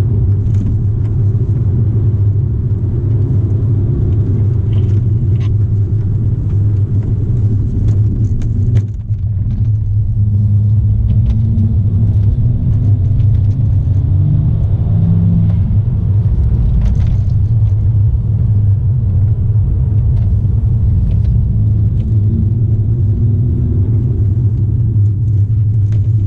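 Cabin noise of a BMW M car on the move: its straight-six engine and the road give a steady low drone. The drone dips briefly about nine seconds in, then the engine note rises over several seconds as the car accelerates.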